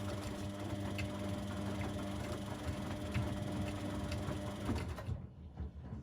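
Washing machine running in its wash phase: a steady motor hum with a mechanical rumble, which cuts off suddenly about five seconds in as the drum pauses.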